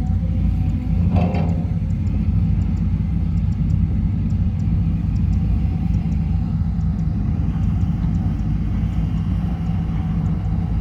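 SANY SY200C excavator's Mitsubishi 4M50 four-cylinder diesel engine running steadily with a deep rumble, with a brief higher-pitched sound about a second in.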